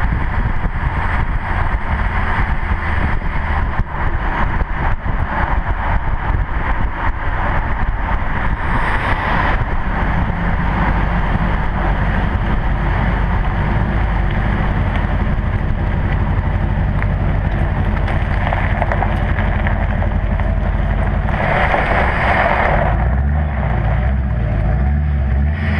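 2008 LMM Duramax 6.6-litre V8 turbodiesel running through a 4-inch straight-pipe exhaust with the cat, DPF and muffler deleted and dumped over the rear axle. The drone is steady, with two brief louder, brighter surges, about nine seconds in and again about twenty-two seconds in.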